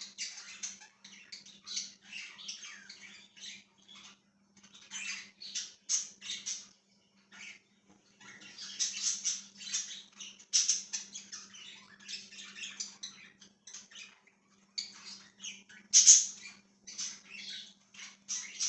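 Budgies chattering: a dense run of short high chirps and squawks in irregular clusters, the loudest call about sixteen seconds in, over a faint steady low hum.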